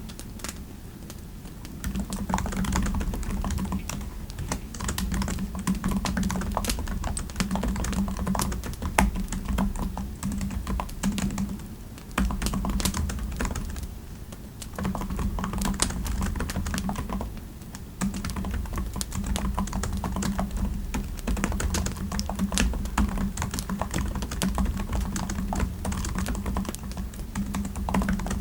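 Typing on a computer keyboard: quick runs of key clicks, broken by short pauses a few times.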